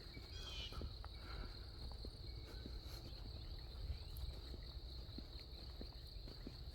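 Steady high-pitched insect trilling, with soft footsteps on the trail and a brief bird chirp about half a second in.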